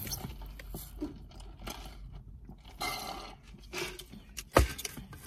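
Close-up eating sounds: chewing with small wet mouth clicks and smacks. A single sharp knock about four and a half seconds in is the loudest sound.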